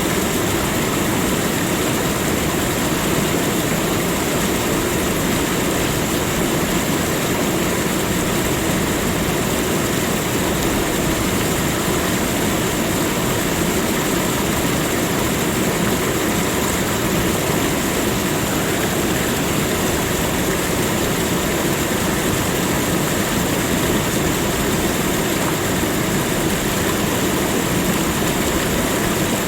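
Continuous nature ambience: an even, unbroken rushing noise with a steady high hiss running through it.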